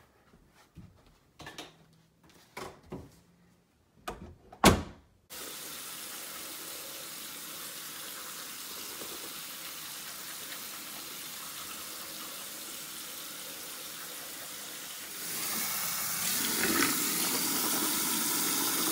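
A few soft knocks and rustles, then a sharp thump about four and a half seconds in. After that a bathroom sink tap runs steadily, getting louder about three-quarters of the way through.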